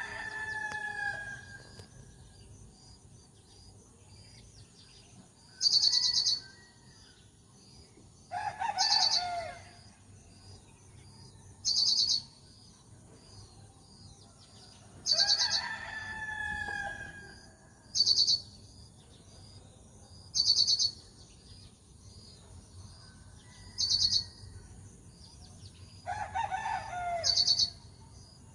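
Birds calling: a short, high chirping phrase repeats every few seconds, with longer calls that fall in pitch in between. A steady, thin high insect drone runs underneath.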